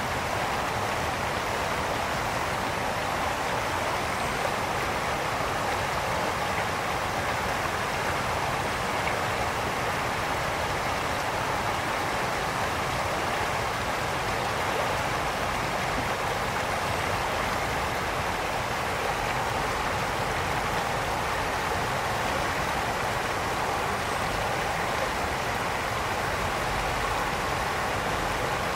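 Brook water flowing over stones, a steady rushing that does not let up.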